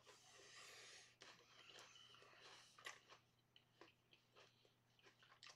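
Faint mouth sounds of eating a hot bite of oyster Rockefeller on a cracker: a soft breathy hiss through the mouth for about the first second, then scattered small chewing clicks and smacks.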